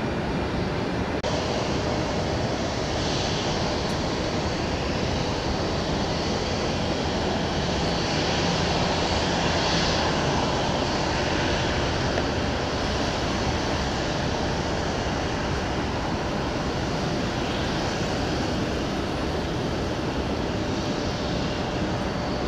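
Aircraft engines running steadily, with a faint high whine, growing a little louder about eight to ten seconds in.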